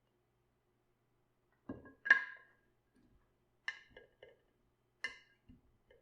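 Hard kitchenware knocking together in a few short clinks, each with a brief ring. The loudest clink comes about two seconds in, and two more follow over the next three seconds.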